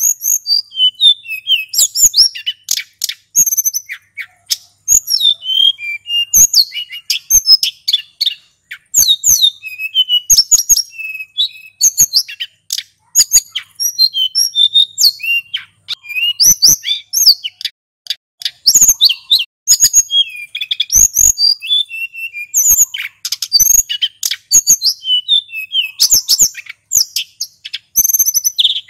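Male sulingan gunung (hill blue flycatcher) singing continuously in rapid, varied whistled phrases and trills, one phrase running straight into the next.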